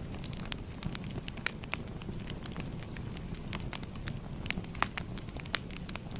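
Crackling fire: a steady low rumble of burning with frequent sharp, irregular pops and snaps.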